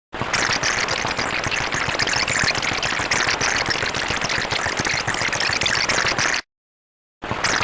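A harsh, dense rattling noise, starting and cutting off abruptly after about six seconds, with dead silence on either side.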